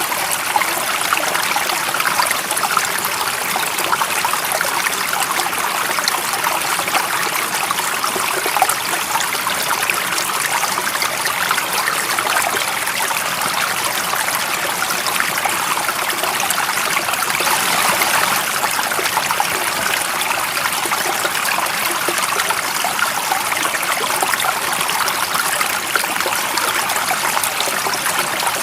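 Running water in a stream, flowing and trickling steadily, with a slight swell a little past halfway.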